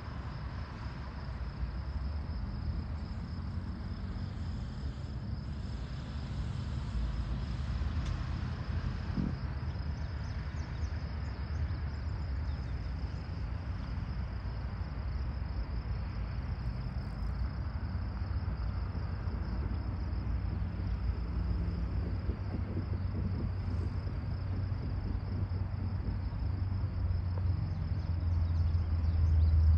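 Low rumble of a distant freight train approaching, shoved by an EMD GP38-2 diesel locomotive, growing louder near the end. A steady high-pitched insect buzz runs through it.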